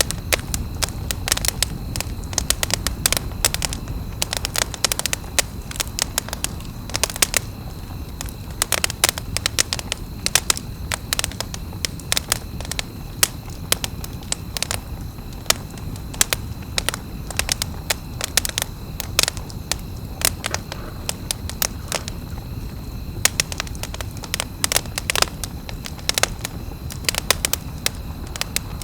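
Wood campfire crackling, with many irregular sharp pops and snaps over a low, steady rumble of the burning fire.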